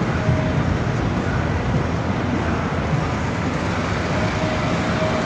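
A mid-1960s Chevrolet Impala's engine running as the car rolls slowly past at close range, a steady low rumble.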